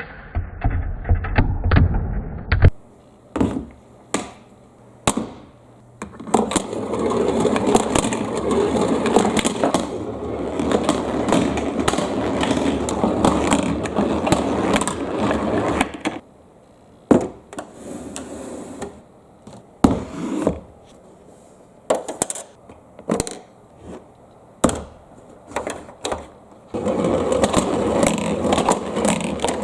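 Marbles rolling along a marble run track with a steady rolling rumble, broken by sharp clacks as they drop and strike the track. The rumble stops about sixteen seconds in, leaving scattered clicks and knocks, and starts again near the end.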